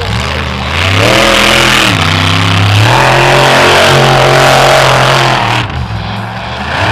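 Monster truck engine revving hard. The revs climb about a second in, dip briefly, climb again and hold high, then drop off sharply near the end.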